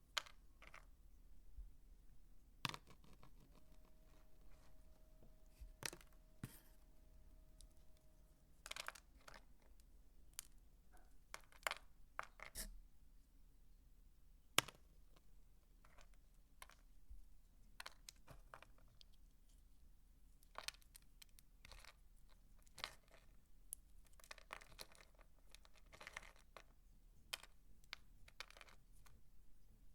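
Soap being cut and crumbled by hand: faint, irregular crisp cracks and clicks, denser for a few seconds near the end. A faint steady tone runs for a few seconds early on.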